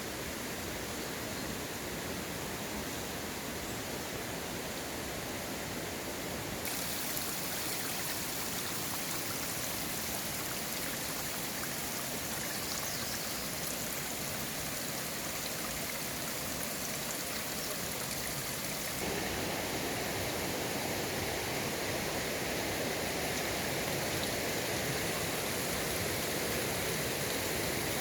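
Mountain stream water flowing in a steady rush. Its sound changes abruptly twice, about 7 seconds and 19 seconds in, getting brighter and a little louder each time.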